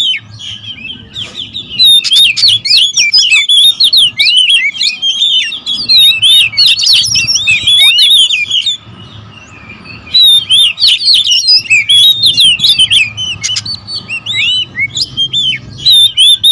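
Several Oriental magpie-robins (kacer) calling together in a dense, rapid jumble of sharp whistled chirps and sweeps: excited, territorial calling of rival birds. The chatter drops away briefly twice, about a second in and around the middle, before picking up again.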